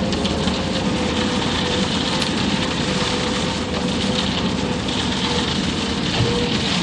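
Self-loading concrete mixer truck running steadily, with a constant whine over dense machine noise.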